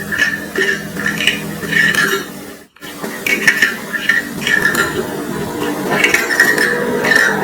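Repeated light clinks and clatter of tableware, broken by a sudden cut to silence about three seconds in, after which the clinking goes on.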